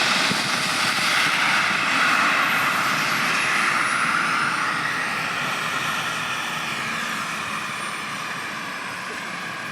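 Helicopter engine and rotor running with a steady rushing noise. A faint high whine slowly falls in pitch, and the sound fades gradually through the second half.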